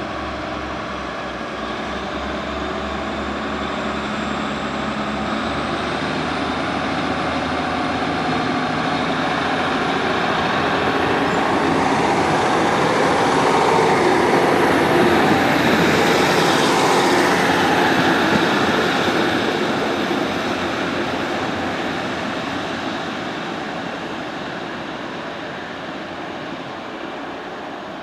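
Class 150 diesel multiple unit running past on the line. Its engine and wheel noise grow steadily louder to a peak about halfway through, then fade away.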